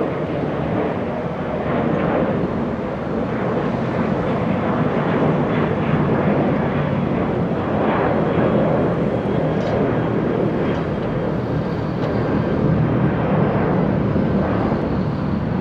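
Jet engine noise from a FedEx Boeing 737-800 freighter's two CFM56 turbofans, a steady loud rush with slight swells in level.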